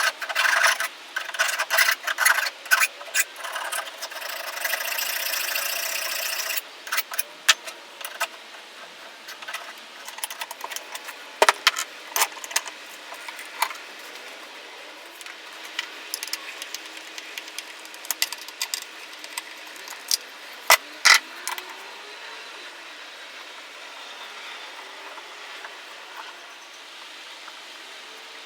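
Hand file scraping on the freshly cut edge of a mini lathe's metal tool rest held in a vise: quick, dense strokes for about the first six seconds, then stopping. After that come scattered knocks and clanks of the part being handled, with two louder ones near the middle and about three quarters through.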